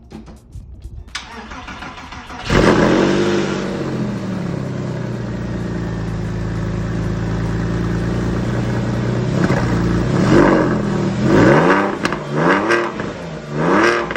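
Porsche 911 (996) flat-six through a new Fister aftermarket exhaust, started after sitting for weeks: the starter cranks, the engine catches about two and a half seconds in with a flare of revs, settles to a steady idle, then takes about four quick blips of the throttle near the end.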